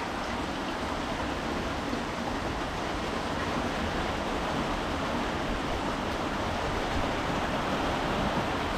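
Steady rushing noise of heavy typhoon rain and running water.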